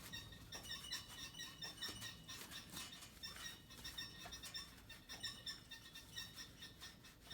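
Faint, rapid high-pitched squeaks repeating irregularly, over a low hum.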